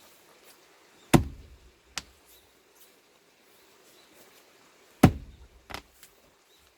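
Axe striking a large plane-tree log: two heavy blows about four seconds apart, each followed by a lighter knock.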